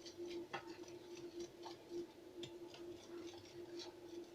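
Batter being stirred by hand in a mixing bowl: light, fairly regular clicks about twice a second as the utensil strikes the bowl, over a faint steady hum.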